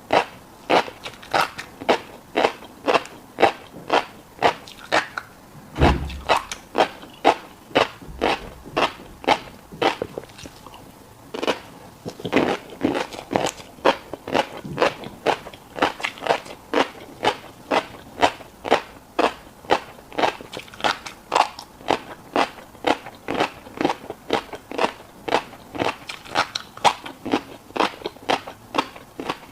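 Close-miked chewing of a mouthful of fish roe, crunchy popping bites in a steady rhythm of about two a second, with a brief pause about ten seconds in.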